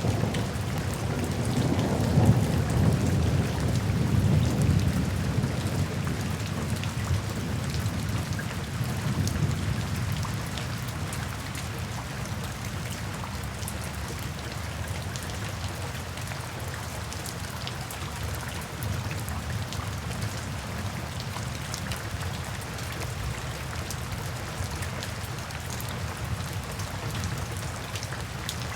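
Steady rain falling, a constant hiss with many small drop ticks. A low, rolling rumble of distant thunder swells in the first few seconds and fades away over about ten seconds, leaving only the rain.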